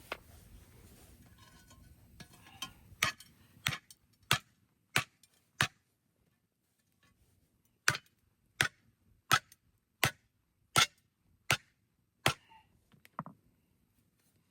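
A series of sharp, evenly spaced strikes, about one every 0.7 s: a run of five, a short pause, then a run of seven, with a weaker knock near the end.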